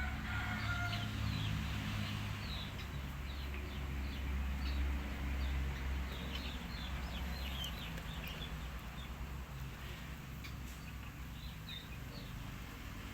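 Bird calling in quick, short falling chirps, over a steady low hum.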